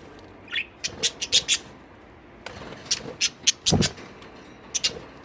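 Pet budgerigars giving a run of short, sharp chirps, with one low thump about three and a half seconds in.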